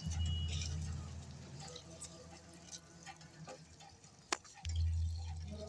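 Water running and dripping, with two low rumbles, one at the start and one near the end, and a sharp click just before the second.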